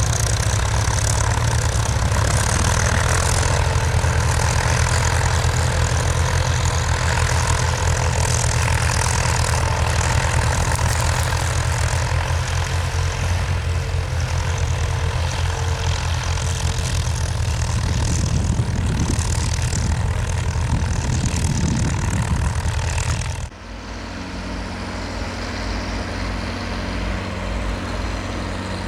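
Diesel tractor engine running, loud and steady with a low pulsing beat. About 23 seconds in, the sound cuts abruptly to a quieter, steadier engine.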